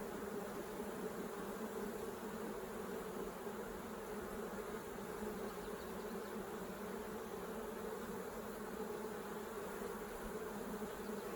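Honey bees buzzing around an opened hive: a steady hum of many bees flying and fanning over the exposed frames.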